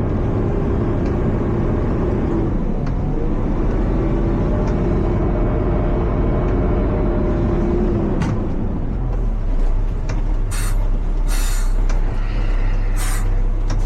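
Front-load garbage truck's diesel engine running under hydraulic load, with a steady whine from the hydraulics that comes and goes twice while the forks and arms work. Near the end come several short bursts of air hiss.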